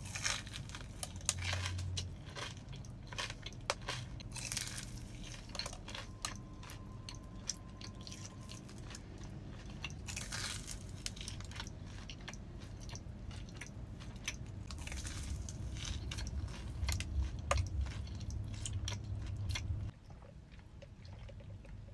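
Close-up eating sounds of a crispy Korean corn dog: biting, crunching and chewing with many small crackly clicks. It stops about two seconds before the end.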